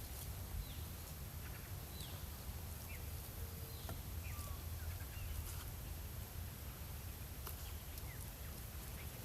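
Birds calling here and there in short, falling chirps, with a few faint clicks, over a low steady rumble.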